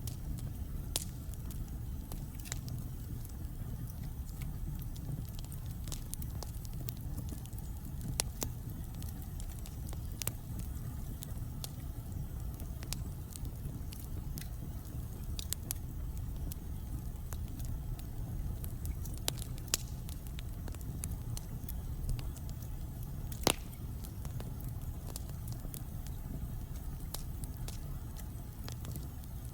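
Wood fire burning in a fireplace: a steady low rumble of flames with irregular sharp crackles and pops from the logs, one pop louder than the rest near the end.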